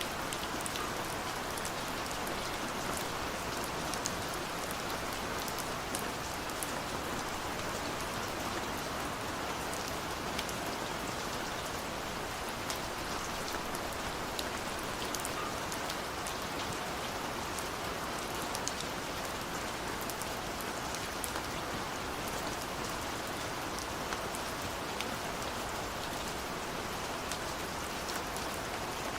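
Steady rain on window glass: an even hiss with scattered sharp taps of individual drops.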